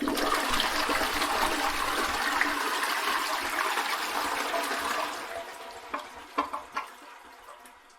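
Toilet flushing: a loud rush of water that dies away after about five seconds into a fainter trickle, with a few small clicks near the end.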